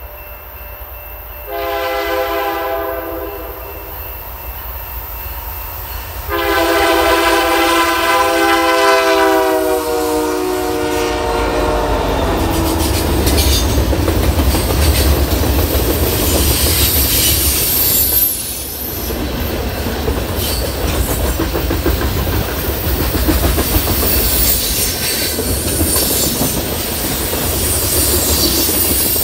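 A diesel locomotive's air horn sounds a shorter blast and then a longer, louder one whose pitch drops slightly at the end as it goes by. The train then rolls past with a steady low rumble and wheel noise.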